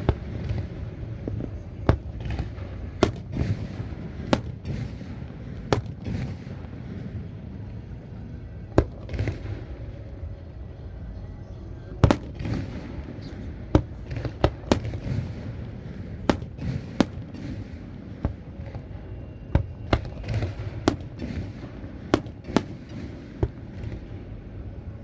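Aerial fireworks bursting: sharp booms at irregular intervals, sometimes several in quick succession, each trailing off in a rolling echo, over a continuous low rumble.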